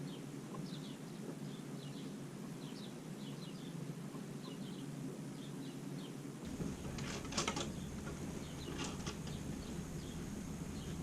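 Faint, scattered chirps of small birds, with two soft knocks past the halfway point.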